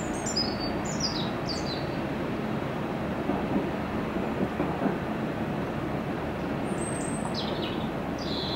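A steady low rumble with a bird calling over it: short series of quick high chirps, each falling in pitch, in the first two seconds and again near the end.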